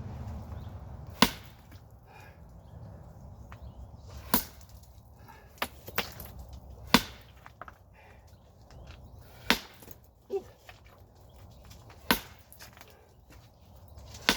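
Sledgehammer blows landing one after another, a sharp crack about every two and a half seconds, with a few lighter knocks in between.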